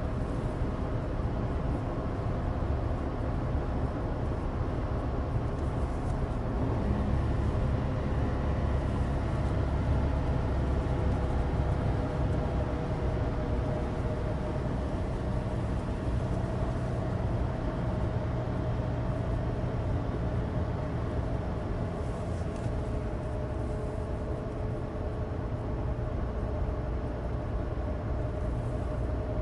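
Cabin noise inside a 2016 Suzuki Alto Turbo RS on the move, on a dry road. There is a steady low road rumble from studless winter tyres and the drone of its small turbocharged three-cylinder engine, with faint tones that drift slowly in pitch.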